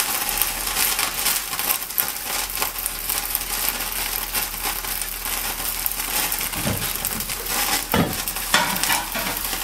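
Food sizzling and crackling in a hot frying pan, with a couple of louder strokes of a utensil stirring it in the second half.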